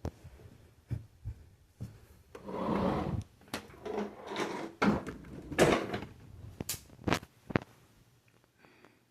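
A series of sharp clicks and knocks with short rustling, scraping stretches between them, as of hard objects being handled and set down. No vacuum motor is running.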